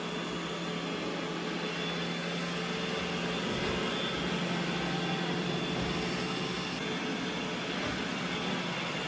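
Vacuum cleaner motor running steadily, a constant whirring hum with a rushing airflow noise.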